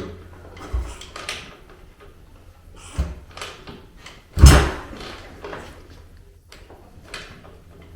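Kickstarter on a 212cc horizontal engine swapped into a Honda CT70 being kicked three times, each kick a thump as the engine turns over against heavy compression without firing, the third the loudest.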